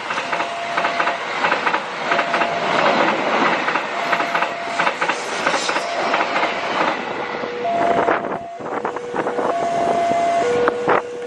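A train rolling slowly over a level crossing, its wheels clicking over the rail joints. Over it, the crossing's warning alarm sounds a steady two-tone signal, switching between a higher and a lower tone about every second.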